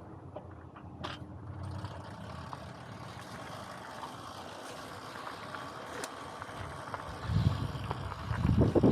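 Coleman mini bike's small single-cylinder engine running, with a couple of sharp clicks and louder low rumbling near the end.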